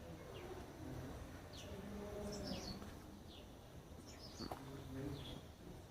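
Small birds chirping outdoors: short, high chirps that drop in pitch, repeating about once a second, over a faint background hum.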